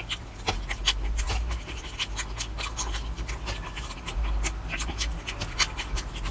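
Close-miked chewing and mouth sounds of a person eating, with many short, irregular crunchy clicks.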